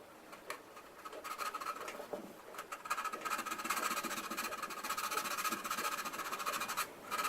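Fast back-and-forth sanding on a plastic model kit part: a dry, rapid scratching that starts lightly, becomes busy and steady about two and a half seconds in, and stops just before the end.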